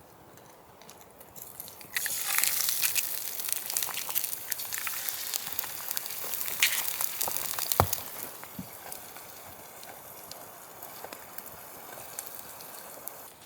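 Food sizzling and spitting in a hot frying pan. It starts suddenly about two seconds in as a dense crackling hiss with sharp pops, and eases off in the second half.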